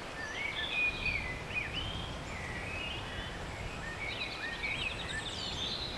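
Small songbirds singing at dusk: a run of short, thin whistled phrases that rise and fall, over a low background rumble.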